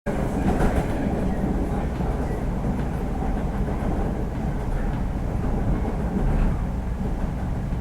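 Steady low rumble of a moving vehicle, cutting in abruptly.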